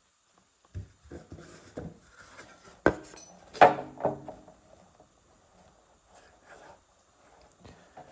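Tools and hard parts being handled and set down: scattered knocks and clinks, with a sharp knock about three seconds in followed by a louder ringing metallic clank and a smaller one just after.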